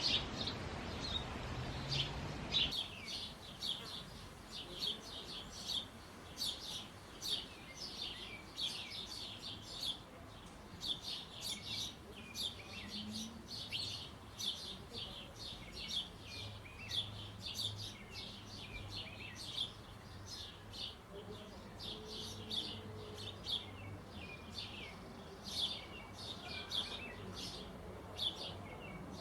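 Small birds chirping: short, high chirps repeat quickly, about two or three a second, without letting up.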